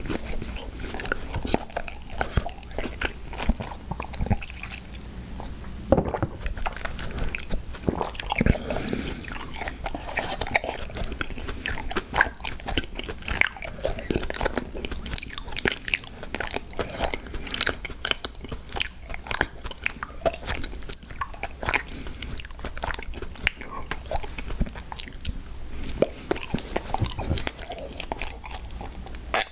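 Close-miked chewing and crunching of crisp cookies: dense, irregular crackles and bites with no break.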